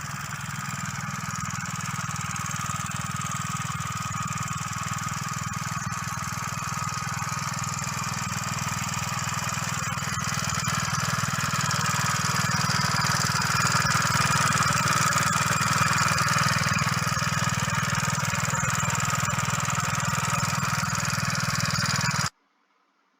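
Motorcycle engine running steadily while driving an attached water pump through its power take-off, getting slightly louder toward the middle.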